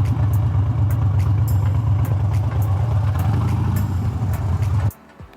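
Harley-Davidson Super Glide V-twin engine running steadily at low speed with a deep, even rumble, then cutting off abruptly near the end.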